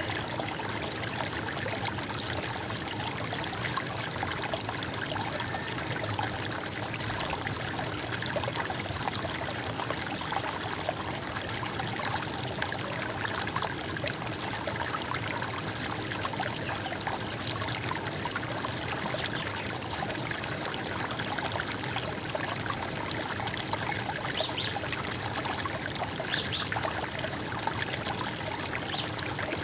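Running water of a stream, trickling steadily.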